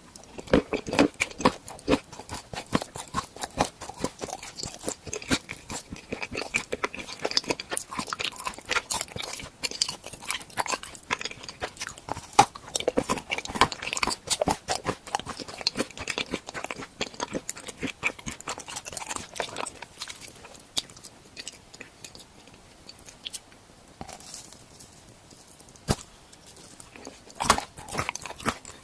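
A person biting and chewing crunchy tool-shaped edible treats: a dense run of crisp crunches that thins to quieter chewing about two-thirds of the way through, then picks up again near the end.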